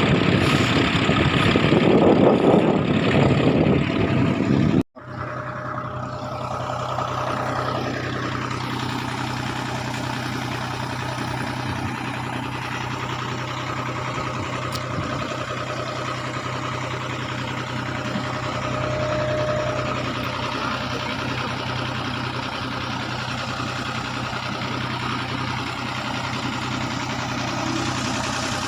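Fishing boat's engine running: loud and rough with rushing noise for the first five seconds, then after a sudden break a steadier, lower hum, as if idling or running slowly.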